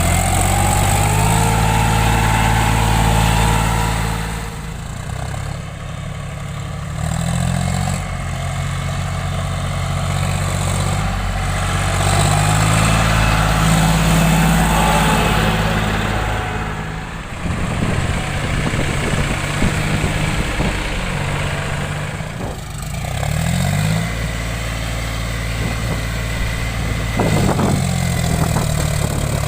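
John Deere 5050D tractor's three-cylinder diesel engine running as the tractor is maneuvered, its pitch shifting up and down several times as the revs change.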